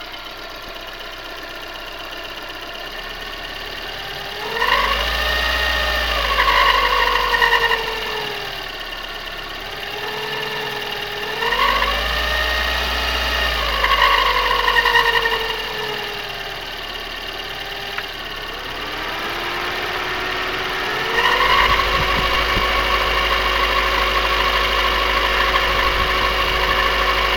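Car engine idling and revved up twice, then held at raised revs near the end, with an extraneous whistle whose pitch rises and falls with engine speed; the owner suspects the water pump.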